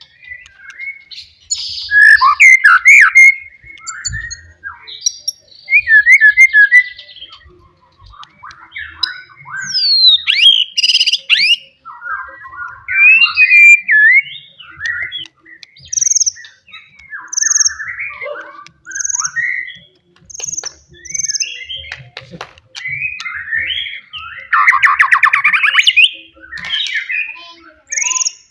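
Wild white-rumped shama singing loudly: a varied stream of short phrases with clear whistles, rapid chattering trills and buzzy notes, broken by brief pauses.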